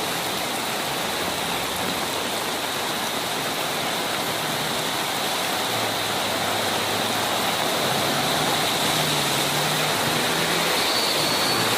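Heavy rain falling on a flooded street with fast-running floodwater, a steady rushing hiss that grows a little louder partway through.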